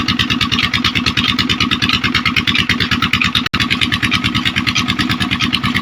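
An engine running steadily with a fast, even pulse, with a momentary break in the sound about three and a half seconds in.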